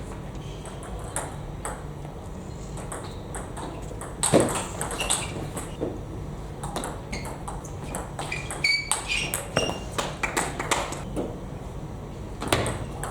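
Table tennis ball clicking back and forth between bats and table in a rally, the hits coming irregularly, with the loudest hit about four seconds in. Short squeaks come in between the hits.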